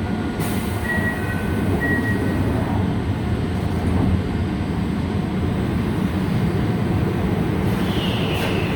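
Toei 5300-series electric train pulling out of an underground station, with a steady rumble of motors and wheels. A brief falling squeal comes near the end.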